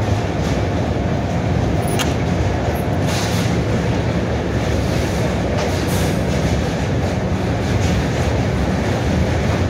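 Farakka Express passenger coach running over a steel truss railway bridge, heard from an open coach door: a steady heavy rumble of wheels on the rails, with a few sharp clicks and rattles.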